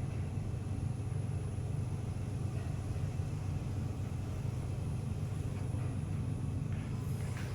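Otis GeN2-Regen lift car travelling in its shaft: a steady low ride rumble.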